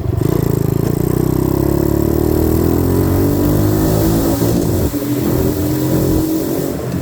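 90cc dirt bike engine accelerating under the rider, its pitch rising steadily for about four seconds, then dropping about five seconds in and running steadier.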